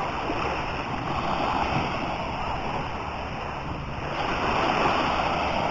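Sea waves washing on the beach: a steady rushing surf noise that swells slightly about four seconds in.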